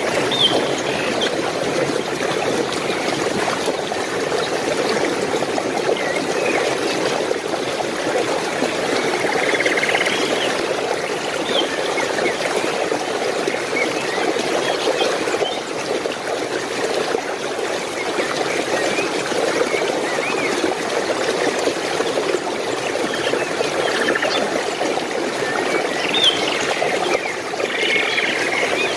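Flowing water of a stream running steadily, with small birds chirping now and then above it, most around the middle and towards the end.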